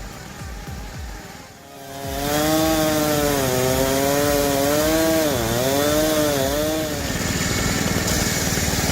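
A small two-stroke engine running at high revs and cutting wood, starting about two seconds in. Its pitch wavers and dips as the cut loads it. A steady music beat runs underneath.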